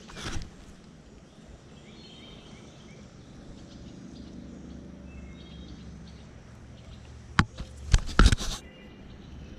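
Steady outdoor background noise with faint, short bird chirps, then a quick cluster of sharp knocks or clatters near the end.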